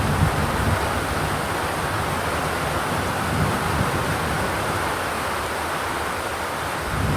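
Steady rain drumming on a zinc (corrugated metal) roof: a dense, even hiss of drops. A low rumble swells up near the start, again around the middle, and once more at the end.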